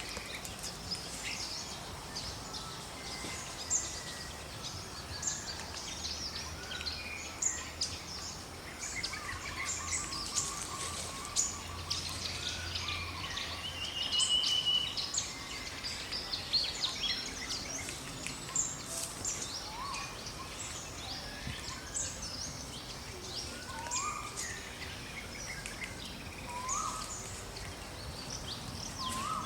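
Forest ambience with many birds chirping and calling, short high chirps throughout over a steady background hiss. There is a brief trill about halfway through and a few rising whistled notes near the end.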